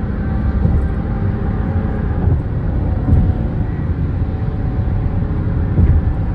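Car engine and road noise while driving: a steady low rumble with a faint engine hum.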